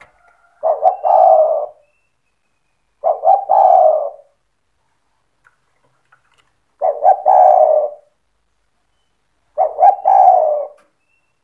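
Spotted dove (tekukur) singing: four cooing phrases a few seconds apart, each opening with a couple of short clipped notes that run into a longer coo.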